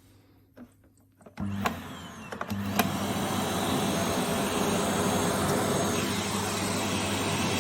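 Vacuum cleaner switched on: it starts about a second and a half in, gets louder a second later, then runs steadily.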